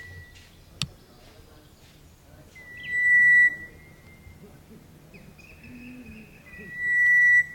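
Hook-billed vanga giving long, steady whistles of one pitch, each about a second long and repeated about every four seconds. A single sharp click comes about a second in.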